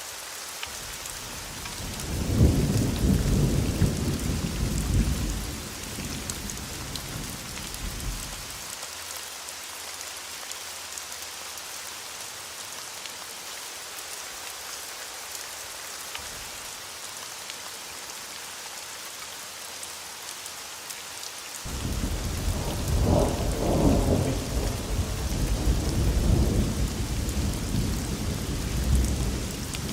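Steady rain with two long rolls of thunder: the first builds about two seconds in and dies away after several seconds, and the second breaks in suddenly about two-thirds of the way through and keeps rumbling.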